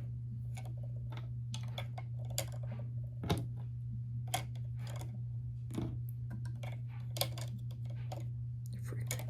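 Small plastic toy pieces and packaging being handled, a string of light, irregular clicks and taps.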